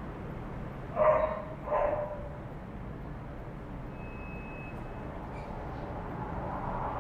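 A dog barking twice, about a second in and again a moment later, over a steady low rumble. A longer, smoother call begins to build near the end.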